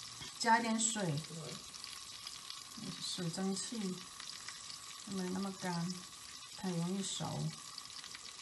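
Beef and leek pancakes frying in oil with a little added water under a glass lid: a steady sizzle.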